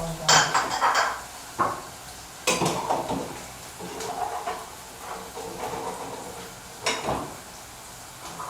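A metal spoon stirring and clanking against a pot of peppered gizzard frying in oil, with a steady sizzle underneath. Several sharp ringing clanks come in the first three seconds, and another near the end.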